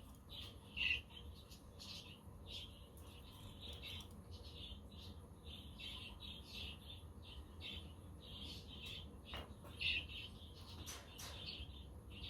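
Budgerigars chattering and chirping continuously in quick runs of short notes, with a couple of louder calls about a second in and near ten seconds.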